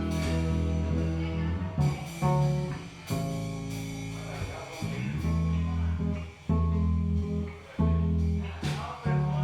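Band music: electric guitar chords over held bass notes, with drum hits marking the chord changes every second or so.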